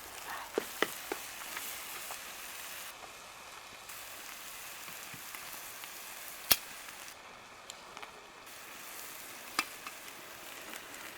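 Food frying in a pan over a wood fire: a steady sizzle with scattered small pops, and one sharp click about six and a half seconds in.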